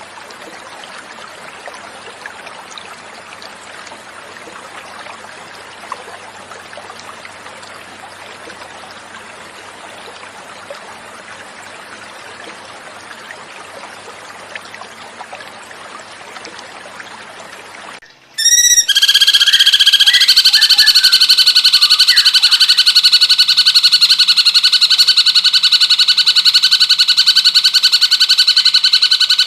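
Flowing water running steadily. About two-thirds of the way in it cuts suddenly to a much louder cucak cungkok song: a fast, unbroken trill of several pitched notes held on without a break.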